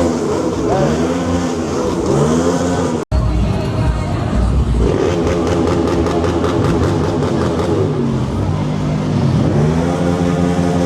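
Ford Mustang's engine being revved in quick blips, each a rise and fall in pitch about once a second. After a sudden break about three seconds in, it revs in slower, longer rises and falls.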